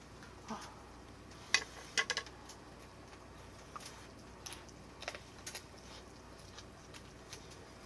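Scattered light clicks and taps of eating utensils against dishes, a few sharper ones about a second and a half and two seconds in.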